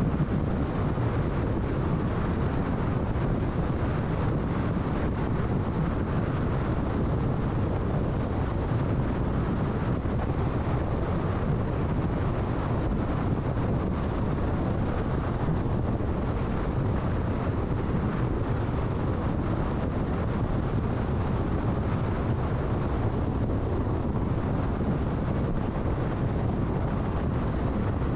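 Car travelling at freeway speed: steady road and tyre noise with wind rush, even throughout.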